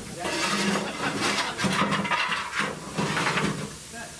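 Steam locomotive exhaust: about four slow, hissing chuffs, each roughly half a second long, as the engine works at low speed.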